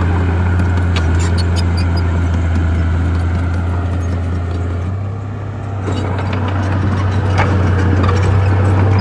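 Bulldozer diesel engine running with a steady low drone, with scattered clanks and knocks over it. It eases off briefly about five seconds in, then comes back louder.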